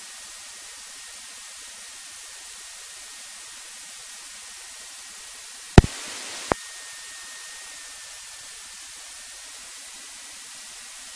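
Steady hiss from the aircraft's radio and intercom audio feed, with a faint steady high whine. About six seconds in, a loud click opens a brief stretch of louder hiss that ends with a second click, like a radio transmission keyed with no words.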